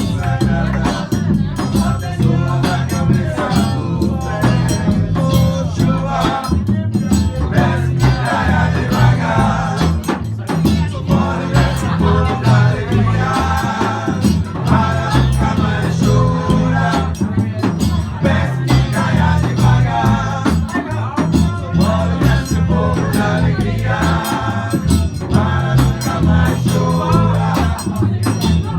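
A band playing live, with sung vocals over a steady bass line and percussion.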